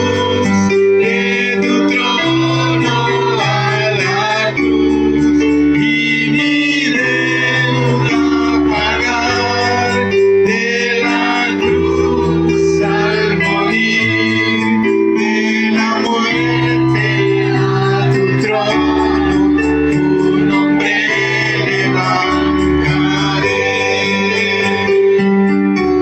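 Church worship music: sustained electronic keyboard or organ chords that change every second or two, with singing over them.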